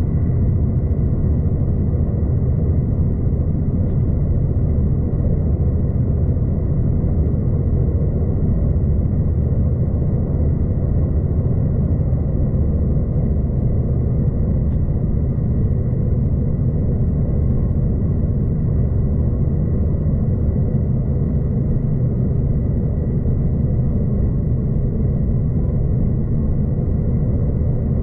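V/Line passenger train running along the track: a steady, unbroken low rumble, with a faint steady high tone above it.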